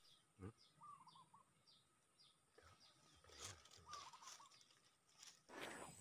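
Faint wild birdsong: a string of short, high chirps repeating about twice a second, with a brief warbling call about a second in and again about four seconds in. There are a couple of soft taps, one about half a second in and one near three and a half seconds.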